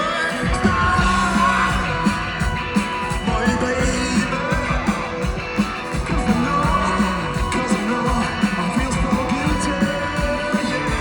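Live rock band playing loud, with electric guitar lines bending in pitch over drums and bass, and vocals on top.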